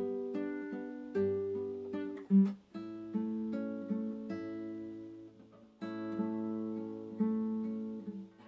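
Solo acoustic guitar playing slow plucked chords and arpeggios, each note ringing out and fading, with a brief pause before the next phrase about two thirds of the way through.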